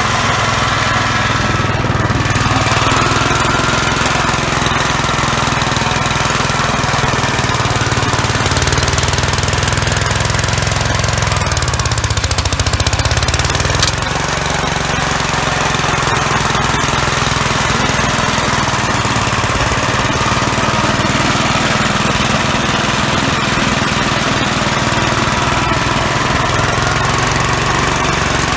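Gravely walk-behind tractor's single-cylinder engine running steadily, driving an MA115 snowblower, with a brief change in its note about halfway through, after which it runs a little quieter.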